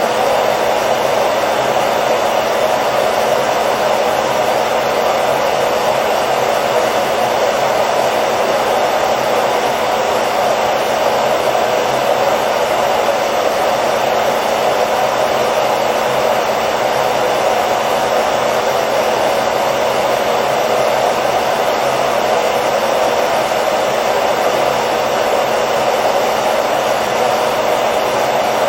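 Hair dryer running steadily: an even, unchanging rush of blowing air over a faint motor hum.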